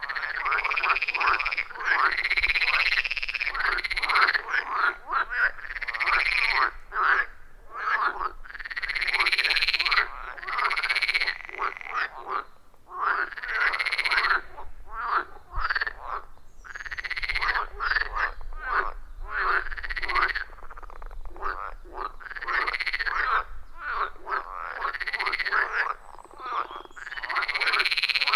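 A chorus of pond frogs, many croaking calls overlapping in a continuous, rhythmic pattern, each call an arched rasping note repeated every second or so.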